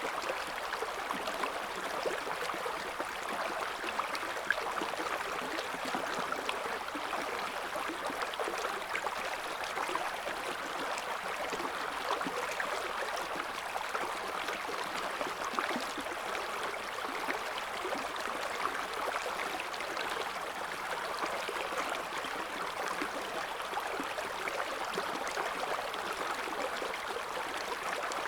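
Shallow river water running steadily over stones, a continuous babbling and gurgling rush.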